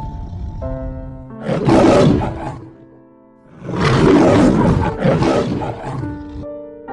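Lion roaring, two long deep roars, over light background music.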